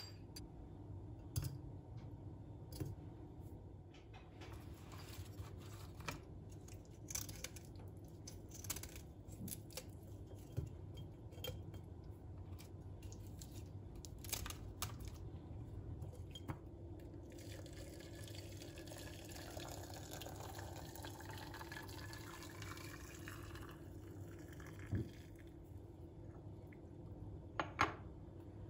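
Small kitchen clinks and knocks, then liquid poured into a glass for several seconds with the pitch of the pour rising as it fills. A couple of sharper knocks of glass or crockery come near the end.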